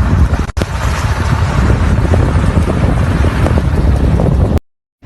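Strong storm wind buffeting the microphone: a loud, irregular rumble with no engine note. It breaks off briefly about half a second in and stops suddenly near the end.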